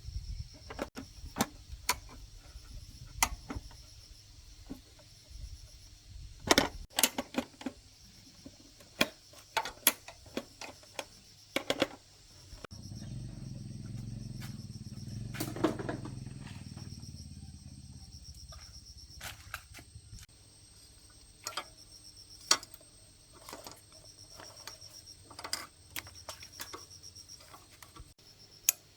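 Irregular sharp metallic clicks and taps of hand tools and small parts being handled during motorbike repair work. A low hum comes in for a few seconds near the middle.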